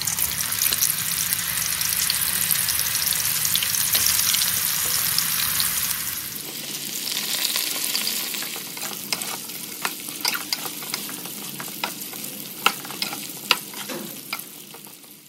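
Banana strips deep-frying in hot oil in a metal wok, sizzling loudly; about halfway through the sizzle drops to a quieter hiss. Sharp clicks and scrapes of a metal skimmer against the wok come through the sizzle in the second half.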